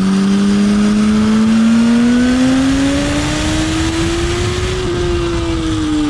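Motorcycle engine pulling hard on a track, its pitch climbing steadily for about five seconds, then falling as the throttle is rolled off near the end, over a steady rush of wind noise.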